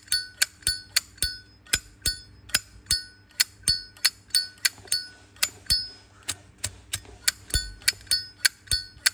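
Zippo lighter being flicked open and snapped shut over and over: sharp metallic clicks about three a second, each with a short bright ring from the metal case and hinge.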